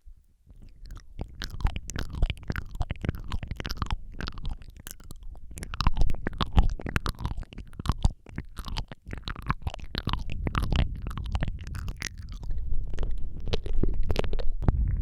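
Wet mouth sounds close to the microphone: rapid clicks, smacks and licking sounds, some sliding down in pitch, over a steady low rumble, starting about half a second in.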